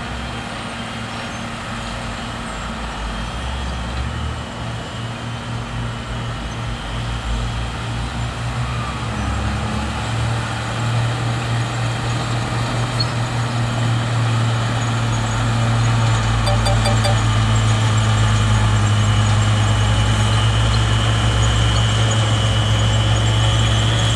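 Heavy diesel earthmoving machinery running under load. The steady low engine note grows louder about ten seconds in and again a few seconds later, and a faint high whine rises near the end.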